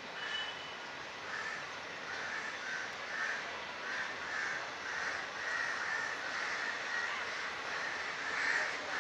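Crows cawing over and over, about two harsh caws a second, a little louder in the second half, over a steady background hiss.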